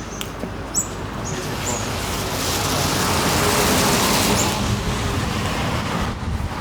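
A road vehicle passing by, its tyre and engine noise swelling to a peak a few seconds in and then fading away.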